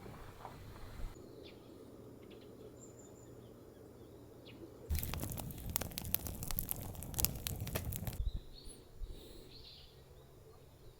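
Small birds chirping over a steady low hum. In the middle there are about three seconds of loud, dense crackling that drowns them out.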